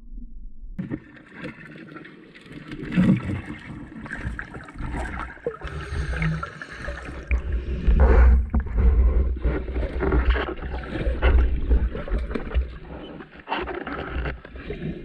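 Water sloshing and gurgling with heavy low rumbling buffeting and crackles, starting about a second in, as from choppy water in strong wind.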